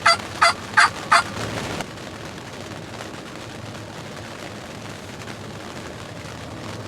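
Turkey calling: a run of loud, evenly spaced yelps, about three a second, that stops a little over a second in and trails off. After that only a steady background hiss.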